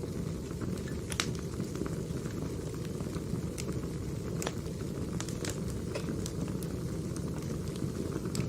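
Firewood burning: a steady low rush of flames with scattered sharp pops and crackles from the logs.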